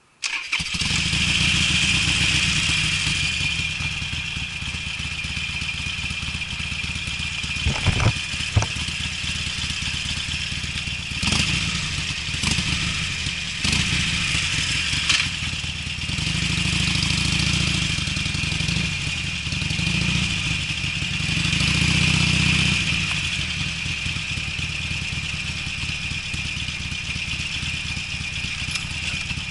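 Harley-Davidson Sportster's air-cooled V-twin running through Screamin' Eagle mufflers, the exhaust note rising and falling several times as the throttle is worked. The owner finds these mufflers give a less dry, deeper bass note. A couple of sharp knocks about eight seconds in.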